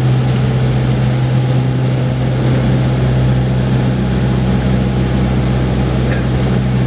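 Cessna light plane's piston engine and propeller drone, heard inside the cabin during the landing approach: a steady, loud hum with a strong low tone that does not change.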